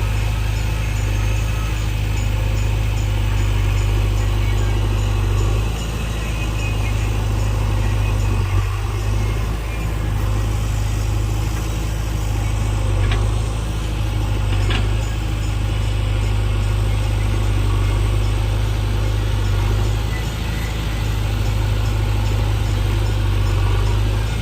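JCB backhoe loader's diesel engine running steadily, its note dipping briefly a few times, with two faint clicks near the middle.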